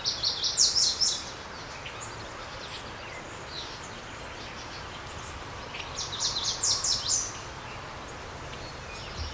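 A small bird chirping in two quick bursts of rapid, high notes, each about a second long: one at the start and one about six seconds in. A steady outdoor background hiss runs underneath.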